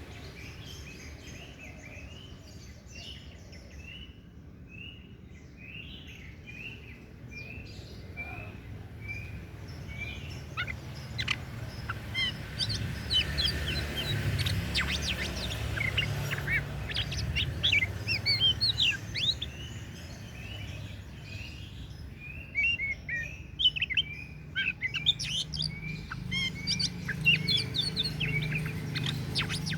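Oriental magpie-robin (kacer daput) singing: a run of evenly repeated short whistled notes, then from about ten seconds in louder, fast and varied phrases of whistles and chirps. A low steady hum runs beneath.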